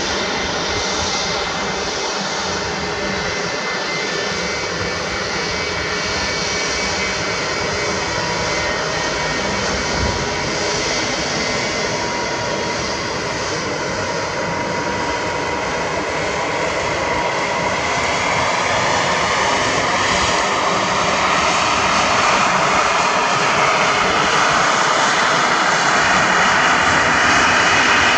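Jet engines of a Bombardier CS100 (Pratt & Whitney PW1500G geared turbofans) running close by, a steady rush with a thin whine, growing louder over the last ten seconds.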